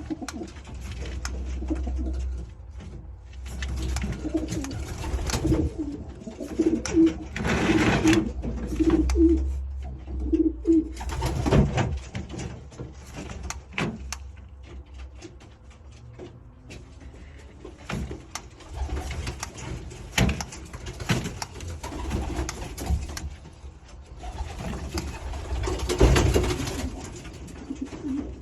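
Pigeon making low cooing throat sounds, with a run of short coos at about two a second around the middle, amid scattered knocks and rustling.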